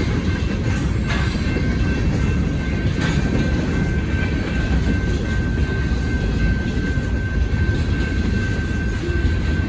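Freight train cars rolling past over a road grade crossing: a steady heavy rumble of wheels on rail, with a few wheel clunks over the crossing and a thin steady high tone above it.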